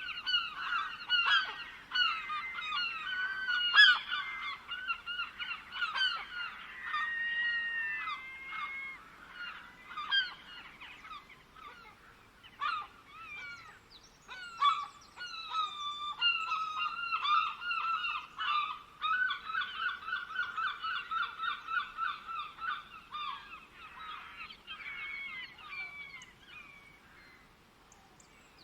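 A flock of birds calling over one another in fast runs of short, repeated notes, with a brief lull midway, dying away near the end.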